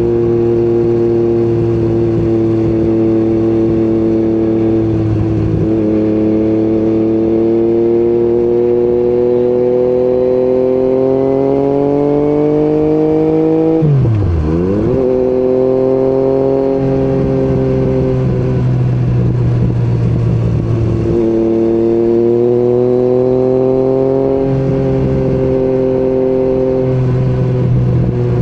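Yamaha MT-09 three-cylinder engine with an Akrapovic exhaust, heard from the moving motorcycle. The engine note climbs slowly under throttle and is broken by several gear changes. About halfway through, the pitch drops sharply and comes straight back up.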